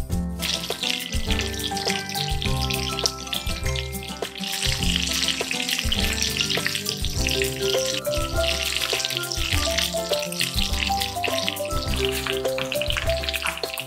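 Chicken pieces sizzling as they fry in a pan, the skin browning; the sizzle grows louder about four seconds in. Background music with a regular bass beat plays under it.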